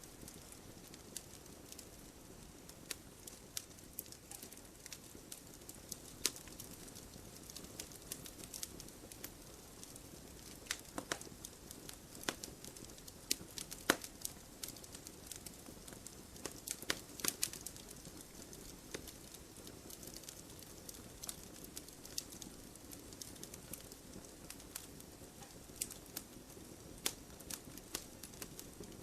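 Wood fire burning in a wood-burning stove: irregular sharp crackles and pops of burning logs over a soft steady hiss, with a louder pop about halfway through and a quick run of crackles soon after.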